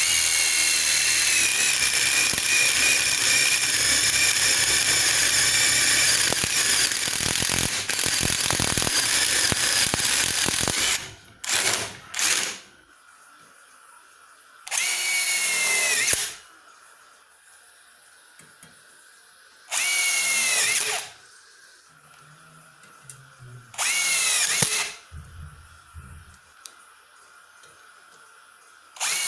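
Stanley SBI201D2K 18 V cordless impact driver running in one long burst of about ten seconds. It is followed by a string of short trigger pulls of about a second each, each with a whine that drops in pitch.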